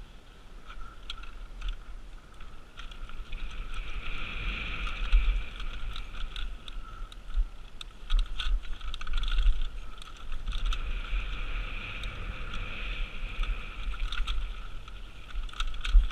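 Mountain bike riding fast down a dirt trail, heard from a GoPro on the bike or rider: wind buffeting the microphone, a steady high whir, and frequent short rattles and clicks from the bike over bumps.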